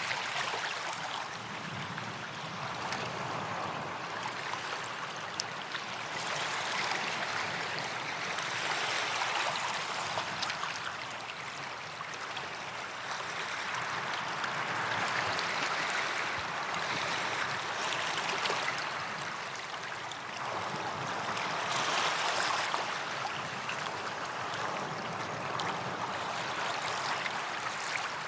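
Gentle waves washing onto a sandy beach, the hiss swelling and fading with each wave every few seconds.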